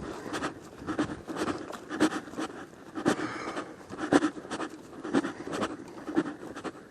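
Footsteps walking along a trail, a crunching step about once a second.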